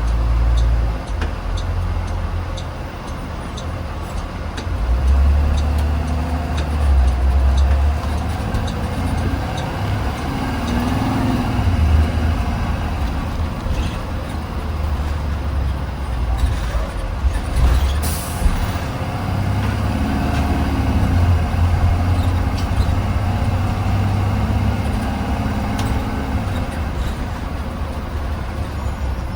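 A 2020 Blue Bird Vision school bus heard from inside while driving: a steady low engine and road rumble whose engine note rises and falls with speed. A short burst of air hiss comes about two-thirds of the way through.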